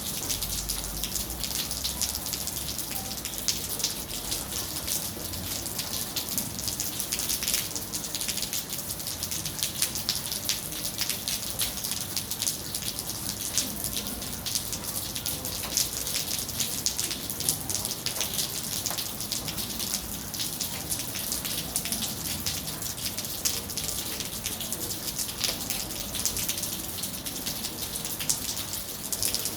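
Steady rain falling, with dense, crisp drop ticks over an even high hiss.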